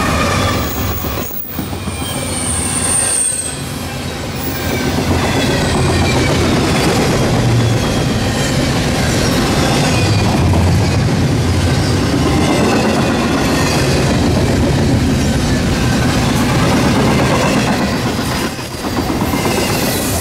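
CSX double-stack container freight train passing at speed: a steady loud rumble of steel wheels on the rail as the stacked container cars roll by, behind the lead locomotive that clears just at the start. A thin high wheel squeal comes in briefly about two to three seconds in.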